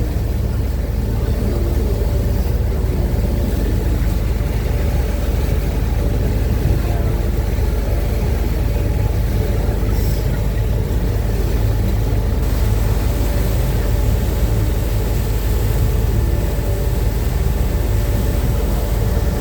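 Uber Boat river bus under way at speed: a steady, loud, deep engine rumble mixed with rushing water and air noise, unchanging throughout.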